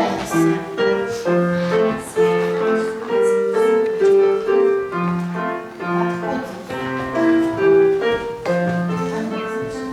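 Piano music playing a melody of separate held notes over a lower bass line.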